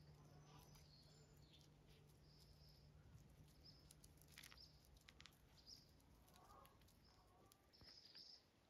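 Faint, near-silent background with short high small-bird chirps recurring about once a second, a few soft clicks, and a low hum that stops about halfway through.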